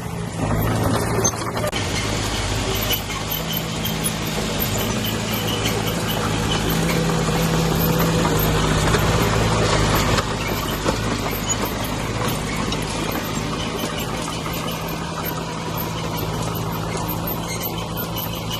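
Diesel engine of a heavy earthmoving machine running steadily under load, with a noisy grinding layer over the engine. It grows louder up to about ten seconds in, then eases slightly.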